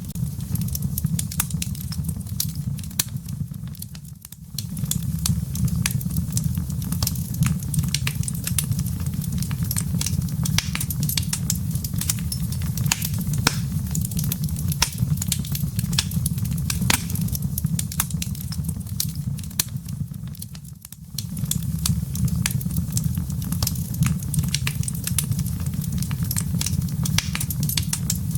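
Wood fire crackling in a fireplace: many sharp snaps and pops over a steady low rumble of the flames. The sound briefly drops away twice, about four seconds in and again some seventeen seconds later.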